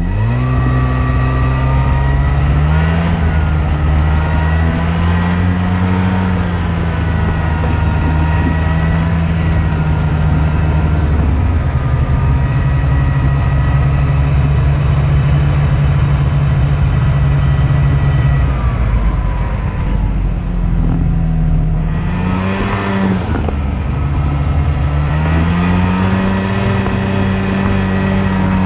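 A motor vehicle engine runs continuously under throttle, its pitch rising and falling several times as the speed changes. There is a dip in engine pitch about two-thirds of the way through, and it picks back up near the end.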